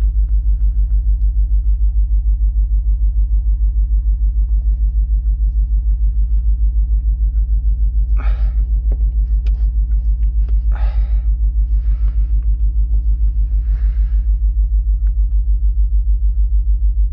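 A Ford truck's engine idling, heard as a loud, steady low rumble with an even pulse. A few brief rustling or scraping noises come through over it about halfway in.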